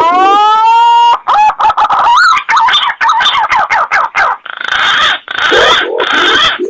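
Bird calls from a pigeon lure recording: a whistled note rises and is held for about a second, then quick warbling glides follow, and three harsh, hissing calls come near the end.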